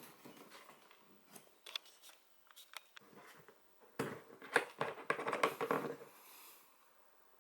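Plastic oil drain pan being handled: scattered light clicks and ticks, then a denser spell of plastic crackling and knocking from about four to six seconds in.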